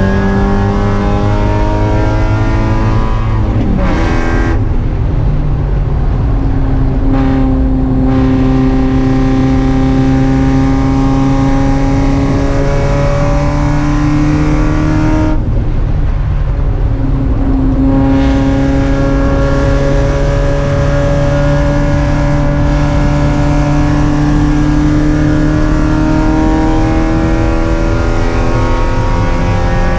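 Spec Miata's four-cylinder engine running hard at race pace. The pitch climbs steadily as the car accelerates, with two sharp drops in revs, about four seconds in and again about halfway through, where the driver shifts or lifts.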